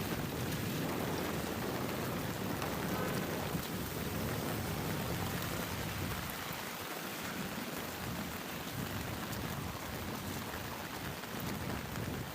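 Steady rain falling, an even hiss with some low rumble underneath.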